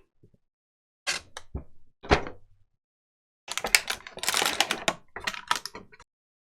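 Packaging being handled as a vinyl figure is worked out of its cardboard box and plastic insert: a few light knocks and taps, then a dense run of clicks and crinkles starting about three and a half seconds in and lasting a couple of seconds.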